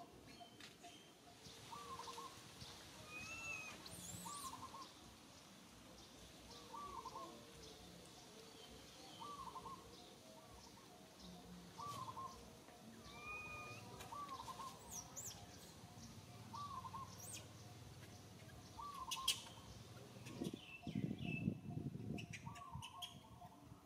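Birds calling in the background: a short call repeated steadily about once a second, with scattered higher chirps. A louder burst of low rustling with a few sharp clicks comes near the end.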